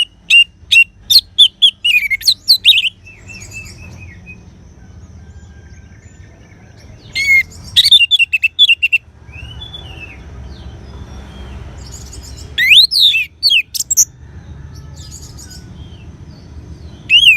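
Orange-headed thrush singing: three bursts of quick, varied whistled notes, each lasting one to three seconds, separated by pauses of several seconds.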